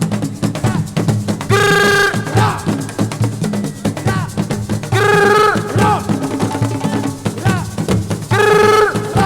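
Live assiko band music: steady, dense drumming, with a short held melodic phrase that comes back about every three and a half seconds.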